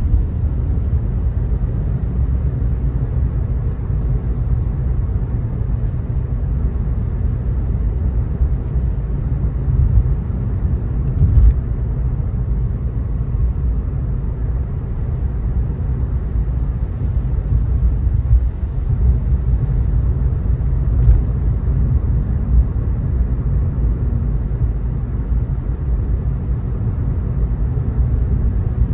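Steady low rumble of a car driving on the road, with road and running noise and no speech. Twice there is a brief knock, likely a bump in the road.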